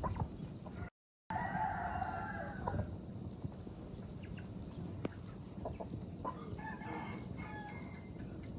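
Rooster crowing: one long crow just after a second in, and a second, fainter crow later. Chickens cluck in between.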